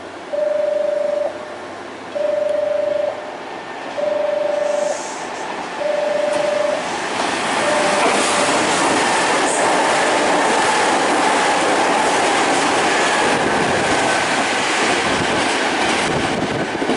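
A steady electronic warning beep, about a second on and a second off, repeats until about eight seconds in, when an electric train comes through the platform with loud rail clatter and a slowly falling tone over it.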